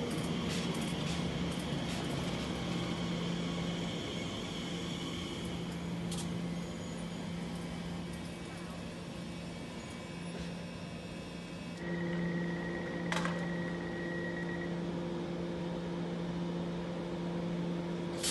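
Electric train humming at a station platform, a steady low drone; about twelve seconds in it gets louder and takes on an extra tone, with a higher steady whine for a few seconds, and a few clicks.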